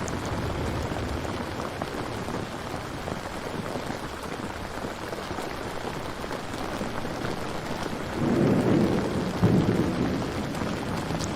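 Steady heavy rain falling, with a low roll of thunder rumbling for about two seconds near the end.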